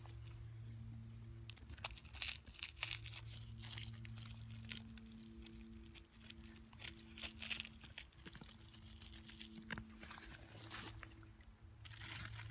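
Irregular crinkling and crunching rustles in short clusters, over a steady low hum.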